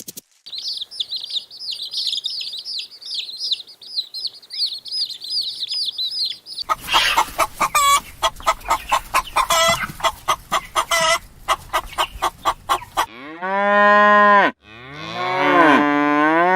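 Farm animal sounds in succession: a shrill chorus of high peeping for about six seconds, then a fast run of short calls, then a cow mooing twice near the end, two long calls.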